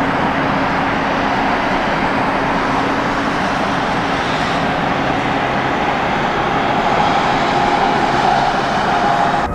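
Jet airliner engines running loud and steady, with a whine that rises slightly in pitch over the last few seconds.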